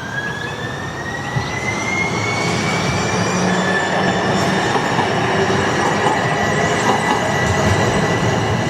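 Streetcar running along the rails, its wheels squealing in a high whine that slowly rises in pitch and then holds steady over the rumble of the car.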